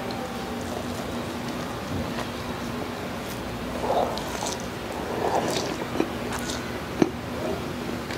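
Close-miked chewing of a soft steamed adobo flakes bao: wet mouth sounds, soft squishes and small lip-smack clicks, with the sharpest click about seven seconds in.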